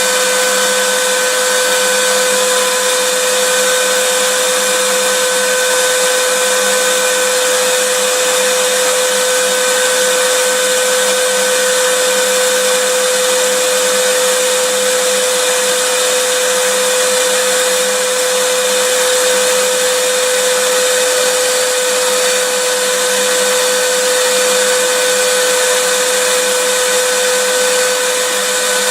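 Vacuum cleaner running steadily: a constant motor whine over a loud hiss of rushing air, with no change in pitch or level.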